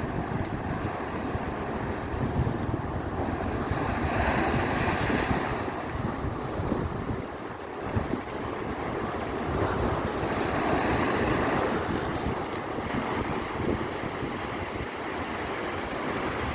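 Waves of the Caspian Sea washing, with two louder surges about four and ten seconds in, and wind buffeting the microphone as a low rumble.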